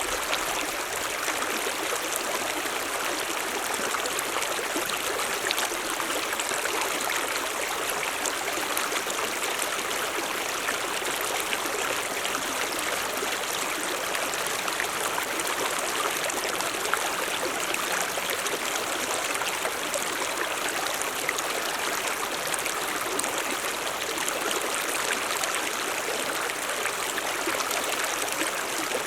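Mountain stream running: a steady rush of water with fine splashing and trickling.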